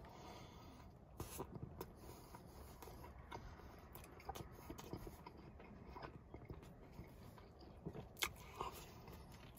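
Someone chewing a mouthful of chili cheese hot dog in a soft bun: faint mouth clicks and smacks scattered throughout, the loudest about eight seconds in.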